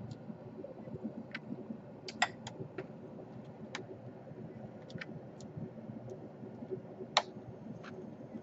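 Scattered small clicks and taps of plastic and metal laptop parts being handled during disassembly or reassembly, over a low steady hum. Two sharper clicks stand out, about two seconds in and near the end.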